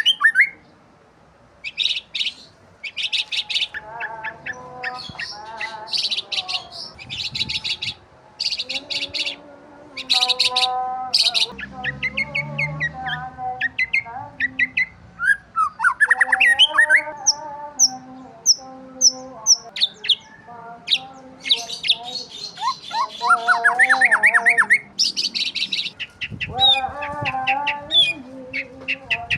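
Several birds chirping and calling, in quick runs of sharp high notes mixed with rising swept calls and lower repeated notes.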